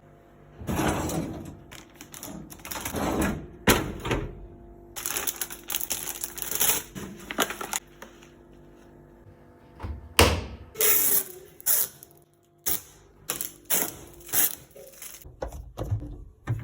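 Irregular clatter of dishes and dishwasher racks being handled: a run of knocks and clinks with a few longer rattling, sliding stretches.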